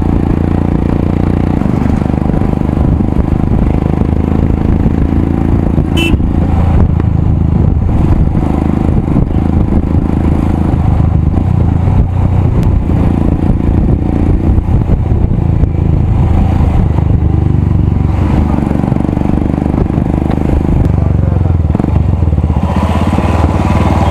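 Royal Enfield Himalayan's single-cylinder engine running through a loud aftermarket exhaust while riding, a steady low exhaust note that holds roughly even throughout.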